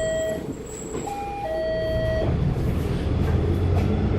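Zyle Daewoo NEW BS090 Euro 6 diesel bus engine running low and steady inside the cabin, while the stop-request call buzzer sounds a falling two-note chime, once just ending at the start and again about a second in. The engine grows louder in the second half.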